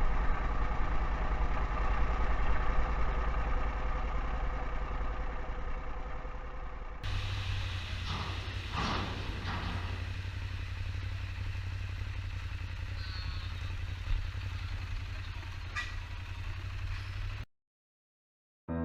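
Ducati Monster motorcycle's L-twin engine running. About seven seconds in the sound cuts abruptly to a steadier low hum with a couple of brief whooshes, and it stops short before the end.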